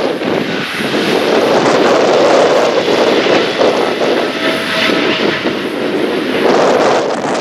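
Boeing 777F freighter's twin GE90 jet engines running loud and steady as the plane passes, with wind gusting over the microphone.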